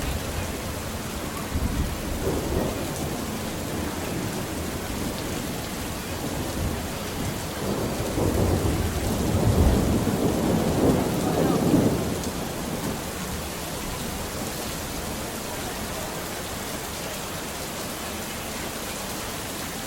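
Steady rain hissing, with rolling thunder: a short rumble a couple of seconds in, then a longer, louder roll that builds through the middle and fades away.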